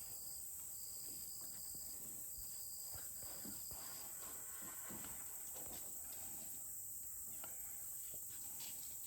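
Insects shrilling steadily in the background, with a repeated high trill that sounds about four times in the first four seconds.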